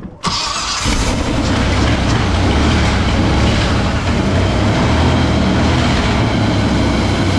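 Chevy small-block V8 that had sat for years, running loud and steady; it starts suddenly just after the beginning.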